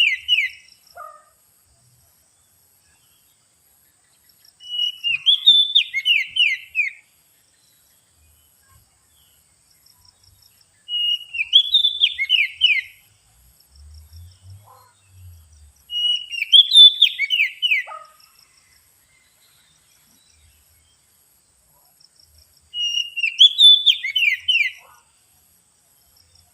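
Oriental magpie-robin (kacer) lure call: the same short phrase, a quick rising note followed by a run of falling whistled strokes, repeated four times about every six seconds.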